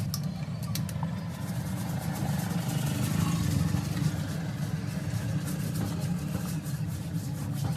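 An engine running steadily with a low, even rumble, with faint scattered clicks above it.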